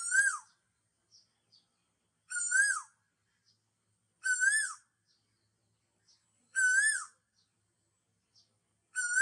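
A bird calling over and over: a short whistled note that rises and then drops away, repeated about every two seconds, with faint short high chirps between the calls.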